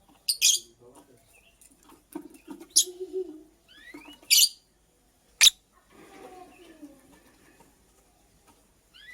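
Lovebird giving four short, shrill chirps, spaced a second or two apart.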